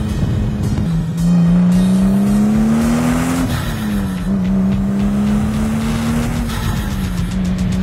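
Toyota Supra MKIV's 2JZ-GTE twin-turbo straight-six, through a custom titanium exhaust, accelerating: its pitch climbs steadily, drops sharply at a gear change about three and a half seconds in, then climbs again and eases back near the end. Music plays underneath.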